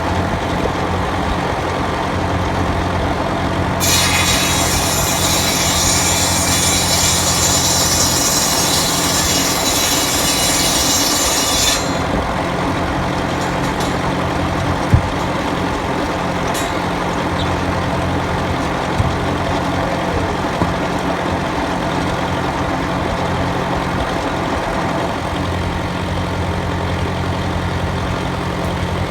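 International Harvester B275 diesel tractor engine running steadily, driving a PTO circular saw bench. From about four seconds in to about twelve seconds, the saw blade cuts through wood, a loud high-pitched noise over the engine. A sharp knock about fifteen seconds in.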